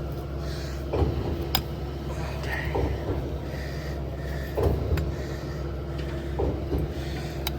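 Skid-steer-powered concrete line pump running, with a steady engine hum and a rhythmic stroke knock about every two seconds as the pump cylinders cycle, four strokes in all.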